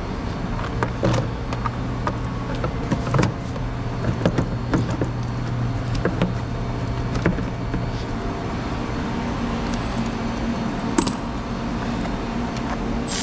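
Scattered clicks and clinks of metal tools and parts being handled during repair work, over a steady low hum.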